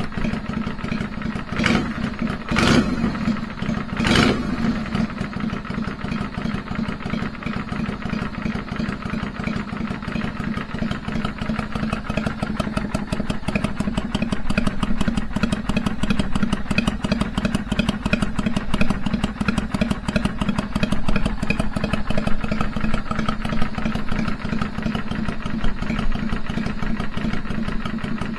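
Kawasaki Vulcan 400's V-twin engine idling steadily with an uneven, loping three-beat rhythm. Three sharp knocks sound over it between about two and four seconds in.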